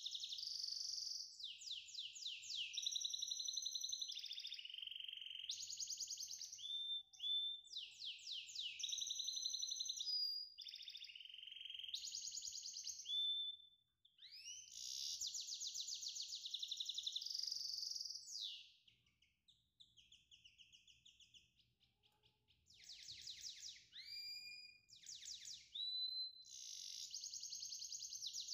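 Songbird singing continuously in fast high trills, repeated chirps and whistled glides, with a brief break about halfway and a quieter stretch a few seconds later.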